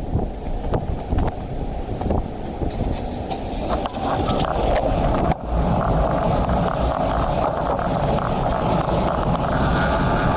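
Wind buffeting the built-in microphone of an action camera mounted on a road bike riding in rain, mixed with road and traffic noise; a few short knocks in the first seconds, and the rushing grows louder about four seconds in.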